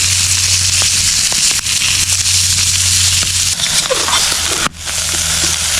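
Steady crackling and sizzling of breakfast leftovers heating over a campfire, with scattered sharp pops. The sound breaks off for an instant near the end.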